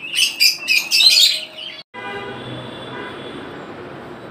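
Caged birds chirping and squawking loudly and rapidly in a bird market for about two seconds, then an abrupt cut to a lower, steady background din.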